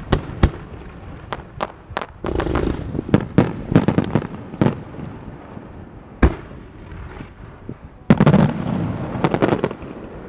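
Aerial fireworks launching and bursting: a string of sharp bangs, some in quick volleys, with the densest and loudest run about eight seconds in.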